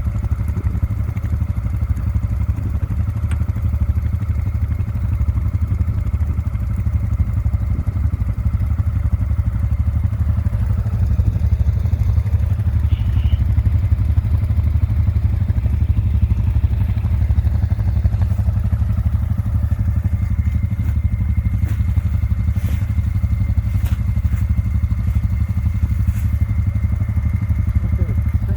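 ATV engine running steadily, a continuous low drone with no clear change in speed.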